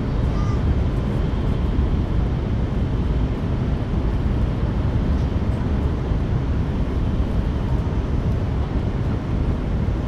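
Steady rumble and rush of an N700S Shinkansen train running between stations, heard from inside the passenger cabin.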